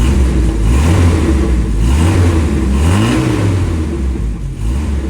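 1993 Jeep Wrangler YJ engine through its stock exhaust and muffler, running with two quick throttle blips, about two and three seconds in, where the pitch rises and falls back.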